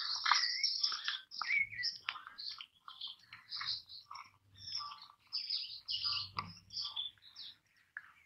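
Birds chirping, with many short calls overlapping and a few quick rising whistles. A single light knock is heard about six seconds in.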